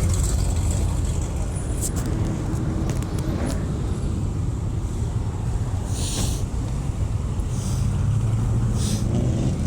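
Vehicle engines running with a steady low rumble, and three short hisses about six, eight and nine seconds in.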